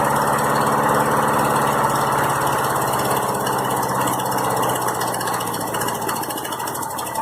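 Lawnmower's small engine running steadily, then faltering and losing speed over the last couple of seconds as it struggles to stay running, which the owner blames on the Seafoam added to its fuel.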